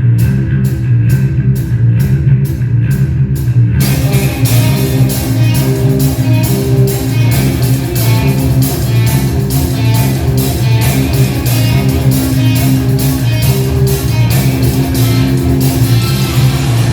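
A live rock band playing an instrumental passage with guitar, bass and drums. A steady beat of high ticks runs over the bass line at first, and about four seconds in the full band comes in with guitar notes.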